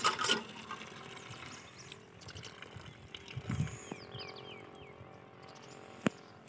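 Quiet outdoor background with a few faint, short falling bird chirps, a brief low thump about three and a half seconds in, and a single sharp click near the end.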